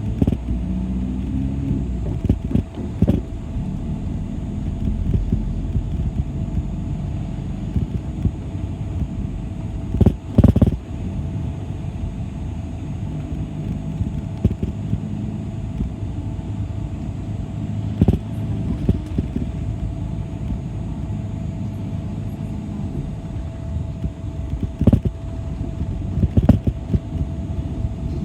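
City bus in motion, heard from inside the cabin: a steady low engine and road rumble with a steady whine, broken by a few sharp knocks or rattles, the loudest about ten seconds in.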